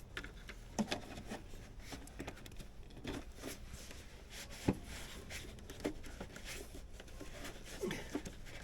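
Hands refitting a part: scattered light clicks and taps, with one sharper tap about halfway through.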